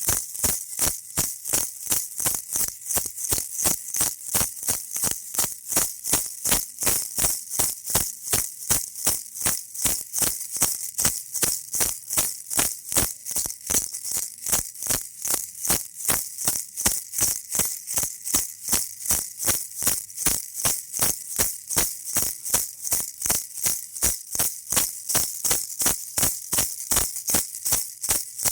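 Baby rattle shaken in a steady, even rhythm of about three shakes a second.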